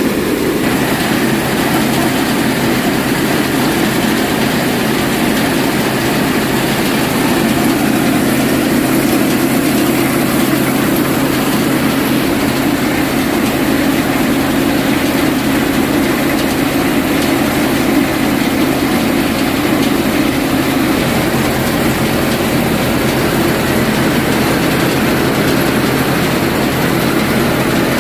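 Farmtrac 45 tractor's diesel engine running steadily, with a basket-model multi-crop thresher working alongside it.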